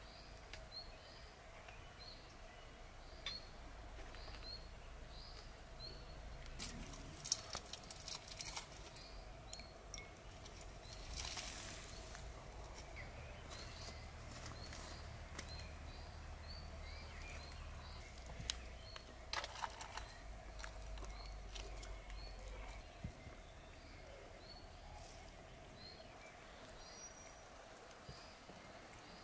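Quiet rural outdoor ambience with a small bird repeating a short high chirp a little faster than once a second, over a faint steady hum. There are a few sharp clicks, such as glass or cutlery being handled.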